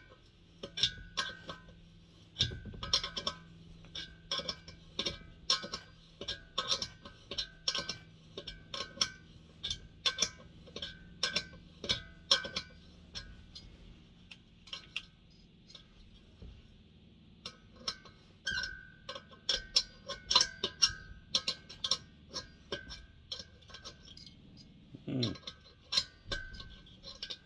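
Repeated sharp metallic clicks, a few a second in uneven runs, from a spanner working a bolt loose on a diesel heater.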